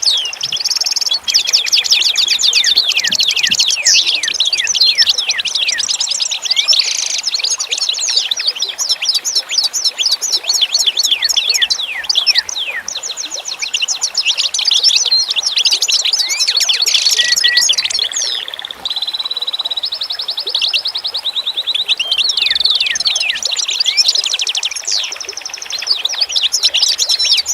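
A dense chorus of many small birds chirping rapidly and continuously, with overlapping high, quick twitters and a few short held whistles.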